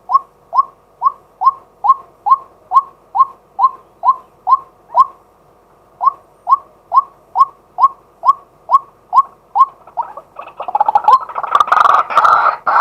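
Male white-breasted waterhen calling: a steady series of short, falling 'kwak' notes, about two a second, with a brief pause about five seconds in. Near the end the calling turns louder and dense, the notes running together into a jumbled chorus.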